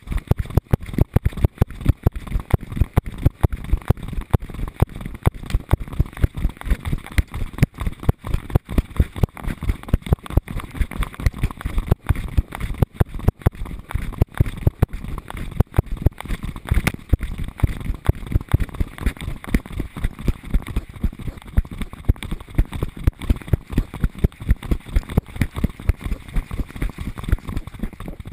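Rapid, regular thumping and rattling from a GoPro strapped to a dog's harness, jostled with each stride as the dog trots along, with the dog's panting and movement mixed in.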